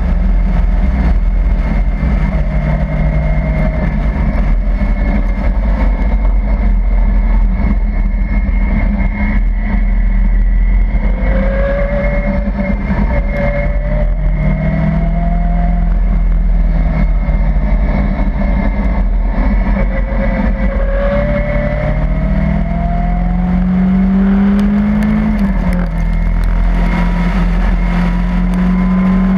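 Caterham sports car's engine heard from the open cockpit at speed, climbing in pitch as it accelerates and dropping back sharply at a gear change near the end, over heavy wind rush on the microphone.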